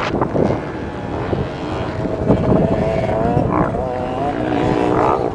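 Dirt bike engine running on a motocross track, its pitch wavering up and down as the throttle changes, over a rumbling, windy background.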